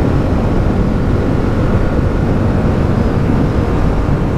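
Suzuki motorcycle running steadily at riding speed, its engine drone mixed into heavy wind rush on the rider's microphone.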